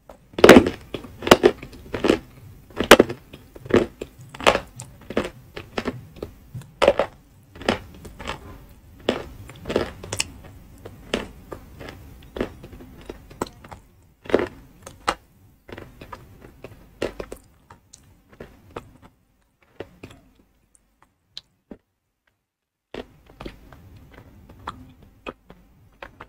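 Chunks of edible chalk (ayilo) being crunched between the teeth close to the microphone: sharp, loud crunches about two a second that thin out to softer, sparser ones after about seventeen seconds, with a pause of about two seconds before a few faint crunches near the end.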